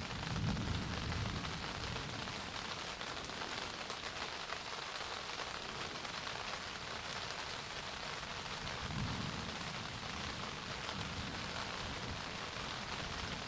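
Steady rain falling and pattering on a surface, a dense even hiss, with low rumbles swelling near the start and again about nine seconds in.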